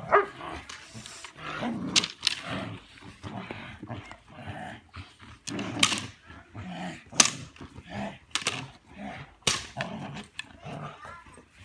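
Belgian Malinois barking repeatedly in short, sharp, irregularly spaced barks during bite work.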